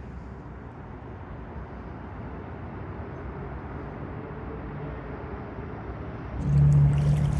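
Steady low rumble of city traffic. About six seconds in, a louder vehicle hum with a steady low tone starts.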